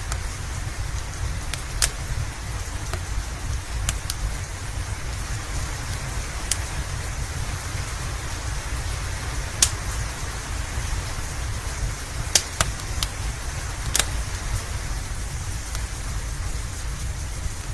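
Steady rain with a low rumble beneath it, and a wood fire crackling with sharp, scattered pops every few seconds, two close together past the middle.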